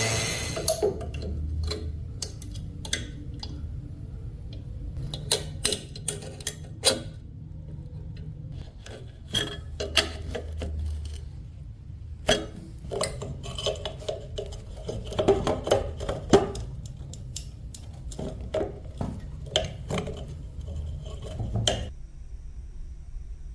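Irregular metal clinks and knocks of tools and metal parts being handled and set down on a workbench, over a low steady hum.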